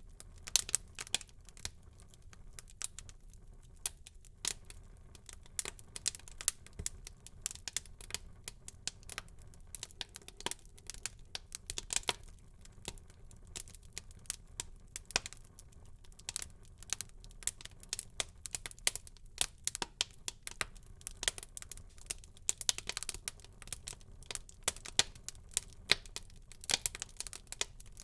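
Wood fire burning in a fireplace, crackling and popping in irregular sharp snaps over a low steady rush of flame, with a denser run of crackles a little after twenty seconds in.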